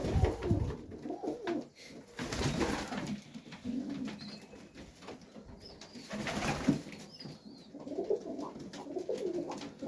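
Domestic highflyer pigeons cooing in the loft, in several warbling bouts, with a few faint high chirps near the middle.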